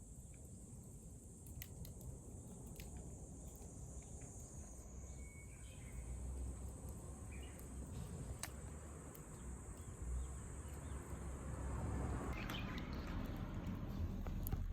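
Insects trilling steadily at a high pitch, with sparse sharp crackles from a wood campfire. A low rumble and a rougher noise build up in the last few seconds.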